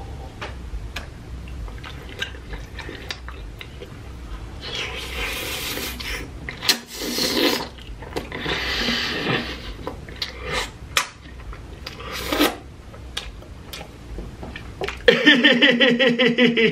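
Close-miked wet chewing of a ranch-dipped fried boneless chicken wing, with short mouth clicks and several loud breaths. About a second and a half before the end, a loud, wavering, drawn-out crying wail.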